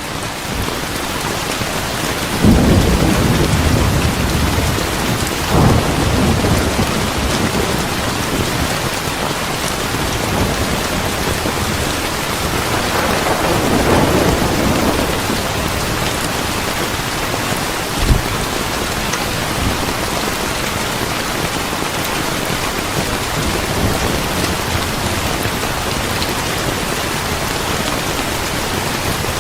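Steady heavy rain with thunder rumbling several times, most strongly a few seconds in and again about halfway through, and one short sharp crack a little after the middle.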